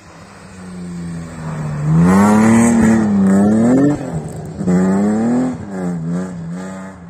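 Rally car engine at full throttle as the car approaches and passes close by, the revs climbing and then dropping sharply several times, loudest about two to four seconds in, then fading as it pulls away.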